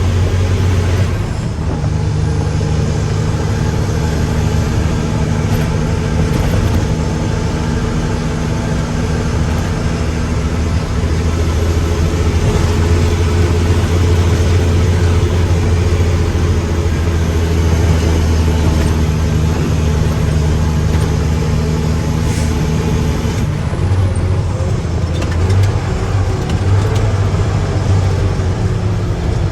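Mack truck's diesel engine running steadily under load, its note shifting about a second and a half in and again a few seconds before the end.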